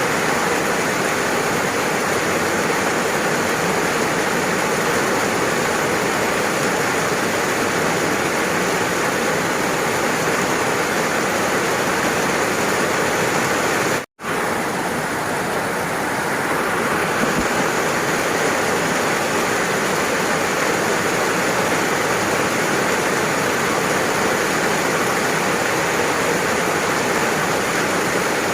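Steady, dense rain, an even rushing noise that cuts out to silence for a split second about halfway through, then resumes.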